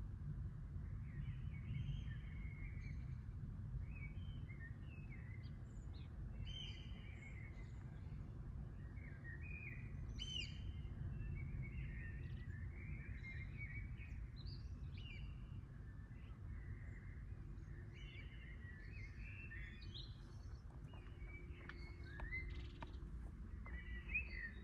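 Wild birds singing in the early-morning chorus, many short high chirps and calls one after another, over a steady low background rumble.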